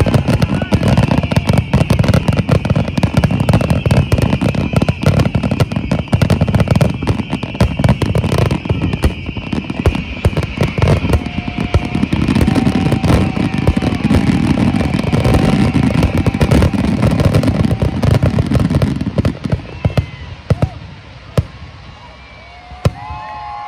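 Aerial fireworks finale: a dense, rapid barrage of shells bursting and crackling, which thins to a few scattered bangs near the end as the display dies away.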